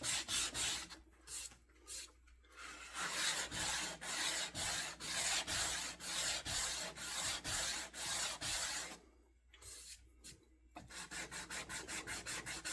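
Hand-sanding a wooden axe handle: quick, even back-and-forth strokes of abrasive on wood, about three to four a second, pausing briefly twice.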